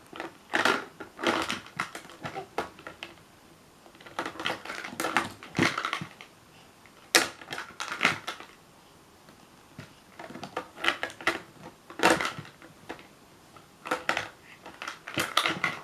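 Toys being knocked off a tray and clattering, in short irregular bursts of rattling clicks every second or two.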